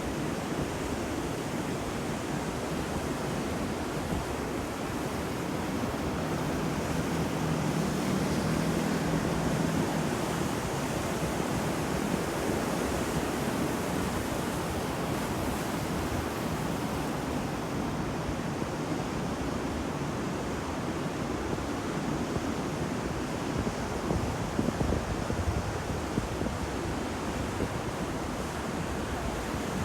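Ocean surf: waves washing in a steady rush that swells a little louder about a third of the way in.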